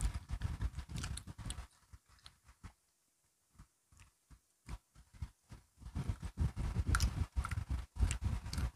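Close-up chewing and crunching of crisp biscuit sticks, with irregular crunches and clicks. The crunching thins to a few soft clicks for a few seconds in the middle, then picks up again.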